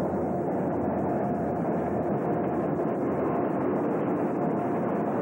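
Diesel-hauled freight train running past: a steady, even noise of rolling wheels and locomotive engines with a faint constant hum.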